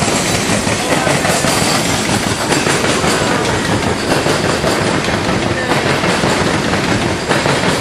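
CSX freight train's open-top hopper cars passing close by: loud, steady noise of steel wheels running on the rails, with faint repeated clicks as the wheels cross rail joints.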